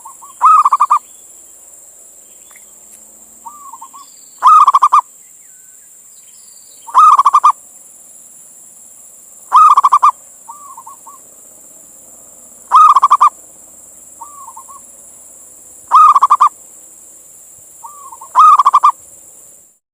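Male zebra dove (perkutut) calling: seven loud, rapidly pulsed coos, one every two and a half to three seconds, with softer short notes between them, over a steady high hiss.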